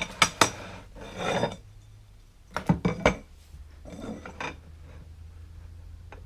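Lengths of 2020 aluminum extrusion knocking and sliding against each other as they are lined up: a few sharp metallic clinks at the start, a scrape about a second in, another cluster of knocks near three seconds, and a softer rub around four seconds.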